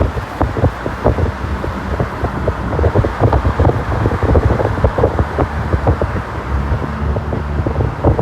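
Wind buffeting the microphone: a continuous low rumble with many irregular short pops, over a faint steady low hum.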